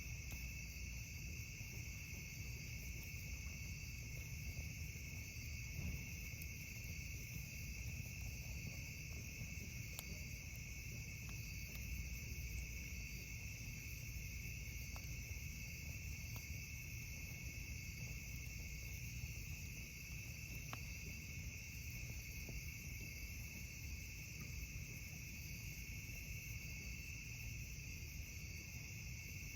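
A steady night chorus of crickets trilling in two unbroken high bands, with a few faint pops from the campfire here and there and a low rumble underneath.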